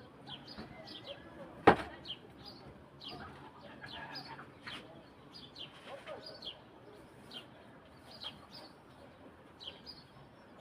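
Birds chirping over and over, short high notes that slide downward, several to the second. A single sharp knock sounds a little under two seconds in, the loudest sound here.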